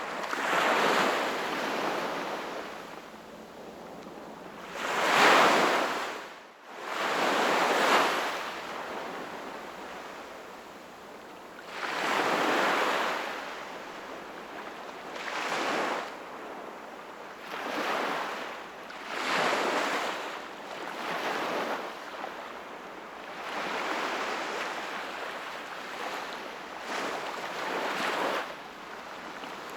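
Sea waves breaking and washing on the shore in repeated swells every few seconds, the biggest two surging about a fifth of the way in.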